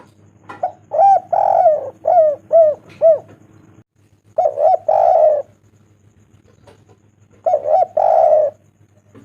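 Spotted dove (tekukur) cooing: three phrases of short, arching coos, each with a longer, rougher coo. The first phrase is the longest.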